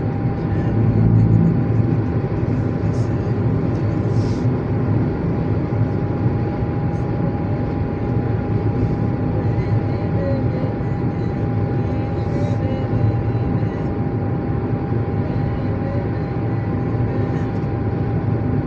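Steady mechanical drone with a constant hum running through it, and a few faint ticks.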